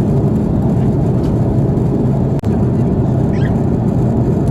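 Steady low rumble of an Airbus A330-300 cabin in flight, the engines and airflow heard from inside. It cuts out for an instant about two and a half seconds in.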